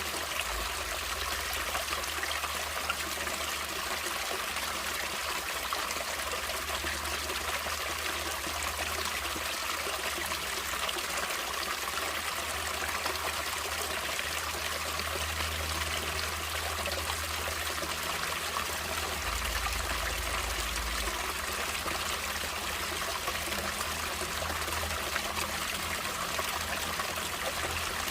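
Natural running water, a stream trickling and flowing steadily over its bed with an even, unbroken hiss.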